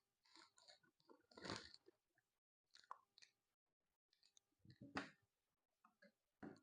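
Faint mouth sounds of a person chewing and biting food, in short irregular bursts with small clicks, loudest about one and a half seconds in and again near five seconds.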